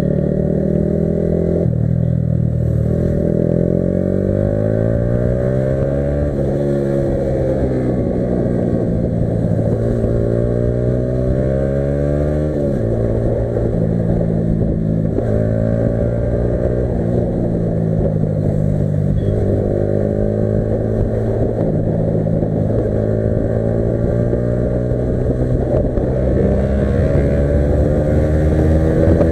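Yamaha R15 V3's single-cylinder engine under way: the revs climb, drop at gear changes about six and thirteen seconds in, then hold fairly steady with small rises and falls.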